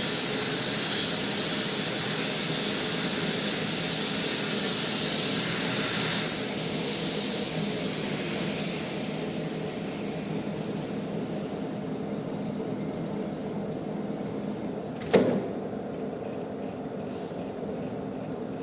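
Manual metal lathe running steadily with a motor hum; a high hiss over it stops abruptly about six seconds in. About fifteen seconds in there is a single sharp knock with a brief ring.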